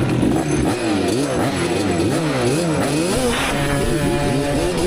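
Two-stroke ATV engine being revved up and down repeatedly with quick throttle blips. It holds a steadier speed for about a second from around three and a half seconds in.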